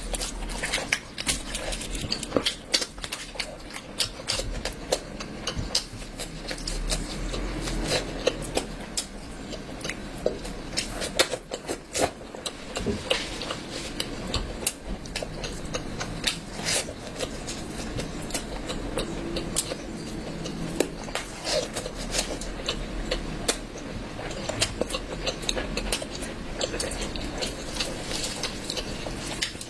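A person eating close to the microphone: steady chewing with many short, irregular wet clicks and smacks of the mouth.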